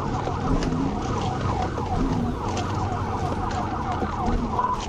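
Police car siren in rapid yelp mode, a fast repeating falling wail about four to five times a second, over steady low engine and road rumble from the pursuing patrol car.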